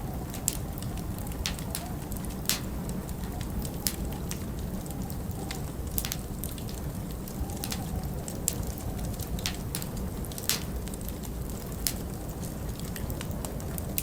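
Wood fire crackling, with irregular sharp pops from the burning logs, over a steady low rumble of winter wind with a faint wavering whistle.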